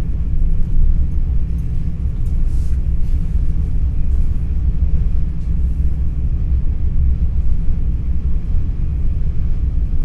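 Steady low rumble of an NS ICNG electric intercity train running, heard from inside the passenger car, with a few faint ticks.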